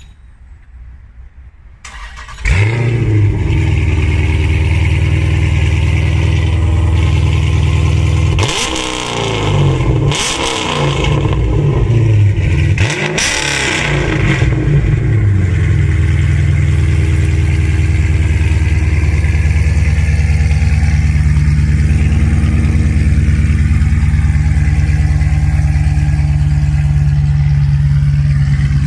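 2018 Dodge Charger SRT's HEMI V8 starting about two seconds in and idling. Several revs rise and fall a few seconds later, then it settles back to a steady idle. The exhaust runs through American Racing headers and high-flow cats with the mid muffler deleted.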